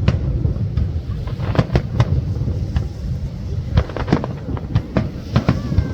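Nagaoka fireworks display bursting: many sharp bangs in quick succession over a continuous low rumble of booms.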